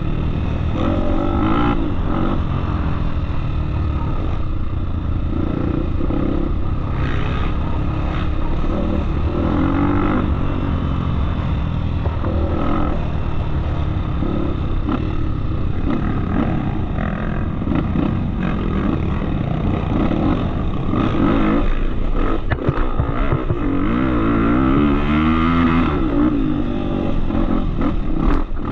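Off-road motorcycle engine running under way, its pitch rising and falling repeatedly as the throttle is opened and closed over the trail.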